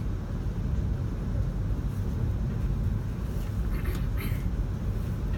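Steady low rumble of a moving Amtrak Superliner passenger car, heard from inside the car. A couple of brief hissing rattles come through about four seconds in.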